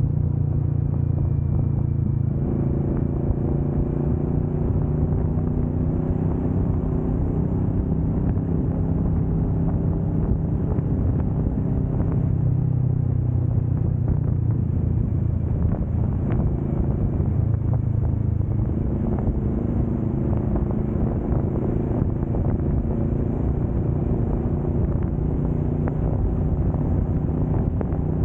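Kawasaki Vulcan S 650 parallel-twin engine running at cruising speed, steady with small shifts in pitch, with road and wind noise.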